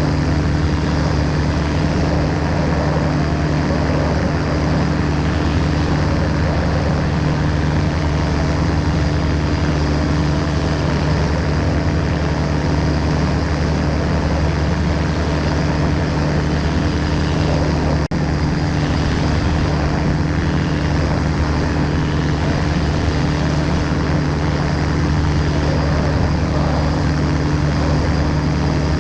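Ultralight aircraft's engine and propeller running steadily at constant power, with a brief momentary dropout about two-thirds of the way through.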